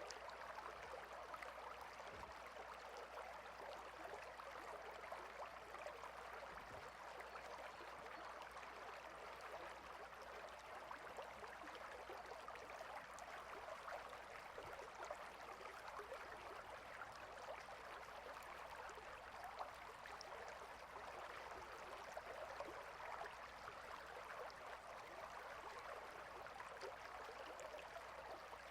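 A water stream flowing steadily.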